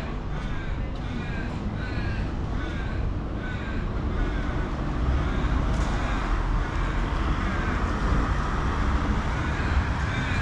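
A crow cawing in a quick series of repeated calls through the first few seconds, then fading. Underneath is a steady low rumble of wind and tyre noise from the moving mountain bike.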